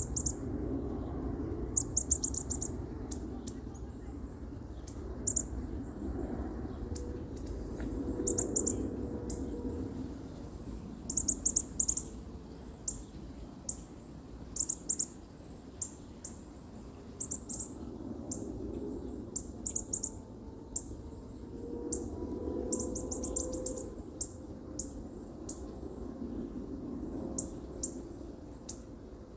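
Baby bird chirping: short, very high-pitched cheeps in quick clusters, repeating every second or two, over a steady low background hum.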